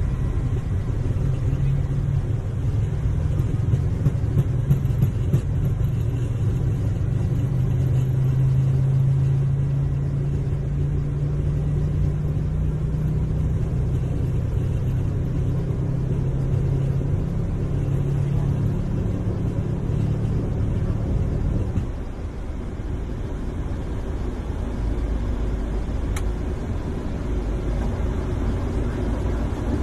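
Boeing airliner taking off: a steady low engine rumble with a droning hum, which drops noticeably in level about 22 seconds in.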